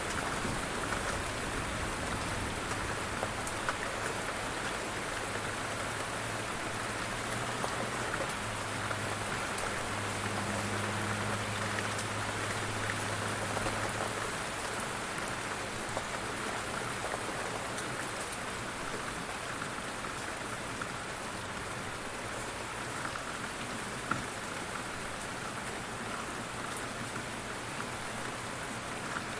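Steady rain falling, an even hiss of drops on surfaces, with a low drone underneath that fades out about halfway through.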